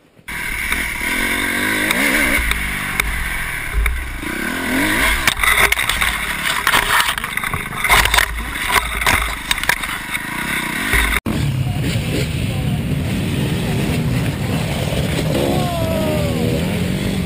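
Dirt bike engine revving up and down under heavy wind noise on the microphone. It cuts off abruptly about eleven seconds in, and a steadier dirt bike engine runs after the cut.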